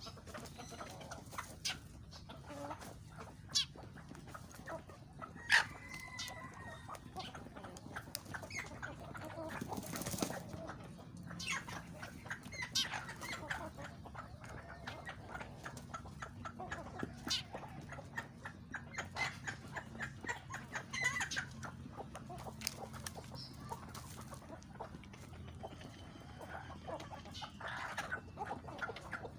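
Chickens clucking, with many short clicks and taps throughout and a brief call about six seconds in.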